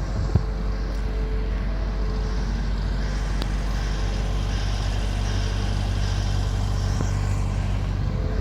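A steady low engine hum, typical of a motor vehicle engine running at an even speed.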